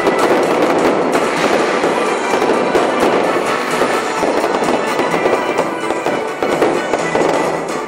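Fireworks display going off: a dense, continuous run of rapid pops and crackles from many bursts at once, with music playing underneath.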